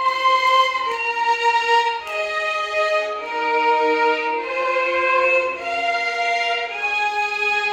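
Violins playing a Carnatic melody in held notes that step from pitch to pitch about every half second to a second.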